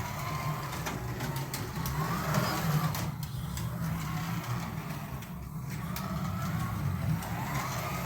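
Carrera Digital 132 slot cars running on the track: their small electric motors whine, the pitch rising and falling as the throttle is worked, with scattered light clicks over a steady low hum.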